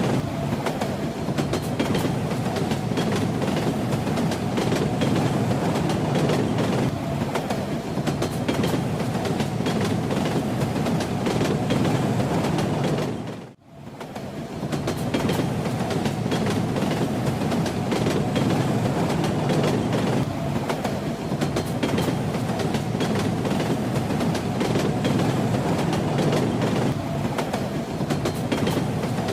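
Passenger train running along the track: a steady low rumble with the clickety-clack of the wheels over the rail joints. About halfway through the sound briefly fades out and comes back.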